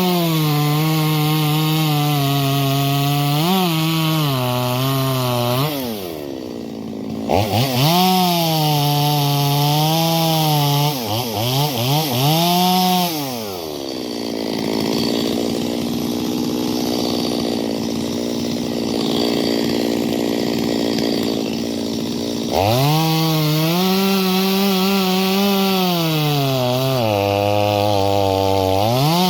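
Stihl MS250 two-stroke chainsaw cutting wood: the engine revs high and its pitch sags as the chain bites, twice. It then drops back to a steady idle for several seconds, and is throttled up to full revs again near the end.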